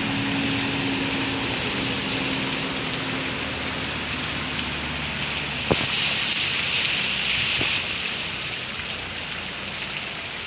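Heavy rain falling steadily on a wet street, a constant hiss. A pickup truck's engine drones under it and fades out over the first few seconds. About halfway through there is a single knock, and the rain's hiss turns brighter and louder for about two seconds.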